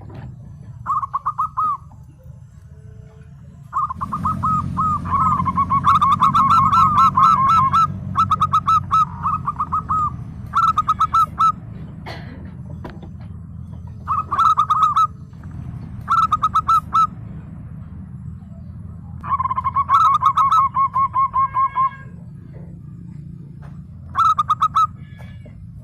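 Zebra dove (perkutut) calling in repeated bouts of rapid staccato cooing notes, some bouts about a second long and some running several seconds.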